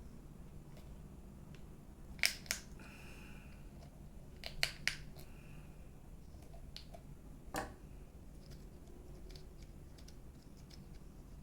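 Sharp clicks and brief scrapes of small tools or plastic parts being worked on an opened hair dryer, in two quick pairs and then one more, with a short squeak after the first pair.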